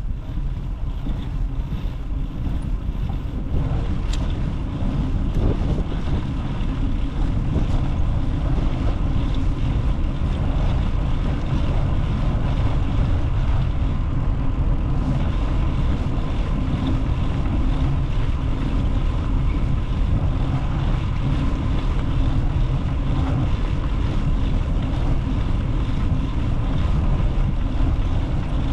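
Wind rumbling steadily on the microphone of a moving rider's camera, with a dense low rumble.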